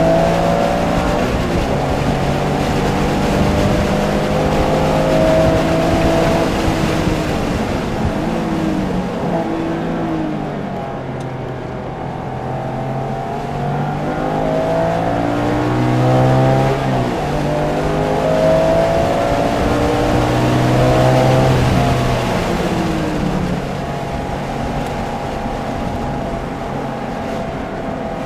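Porsche engine under hard track driving, heard from inside the car: the engine pitch climbs under acceleration and falls under braking and downshifts, dropping lowest about ten seconds in and again near the end, then running steadier.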